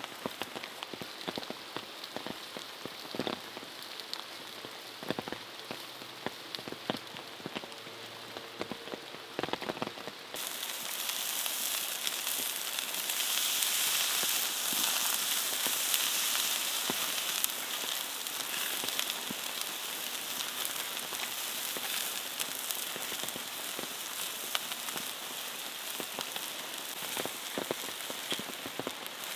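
Steady rain falling, with scattered sharp clicks. About a third of the way in, the sound switches abruptly to a louder, brighter, steady hiss.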